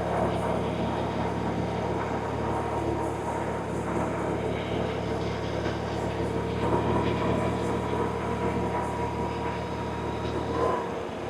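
BMW R1100RT's boxer twin engine running steadily under way. Its low note dips briefly near the end.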